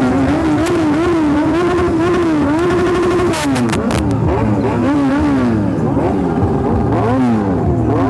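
Several motorcycle engines revving at once, their pitch rising and falling in quick repeated throttle blips, with a burst of sharp cracks about three and a half seconds in.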